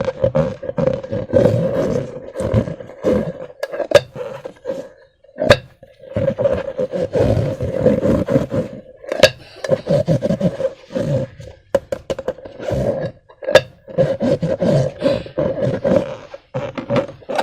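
Slime being squeezed and kneaded by hand: irregular wet squelching in bursts, with several sharp snaps and clicks along the way, the loudest about four seconds in and again near the middle.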